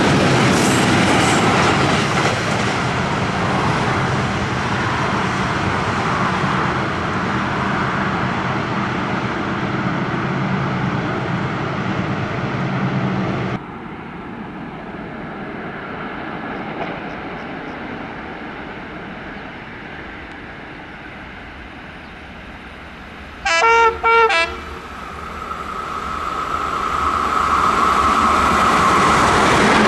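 A long freight train of hopper wagons rolls past close by, its wheels clattering over the rail joints. After a cut, an approaching CFR class EA electric locomotive gives two short horn blasts, the loudest sound here. Then the rumble of its passenger train grows steadily louder as it nears.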